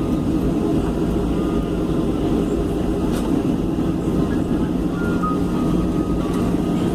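Aircraft engine running steadily as the plane taxis, a constant low hum with no change in power.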